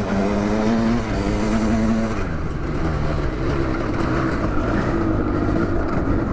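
Custom-built 700cc two-stroke dirt bike engine under way, held at high revs for about two seconds, then dropping in pitch as the throttle eases and running on at lower revs.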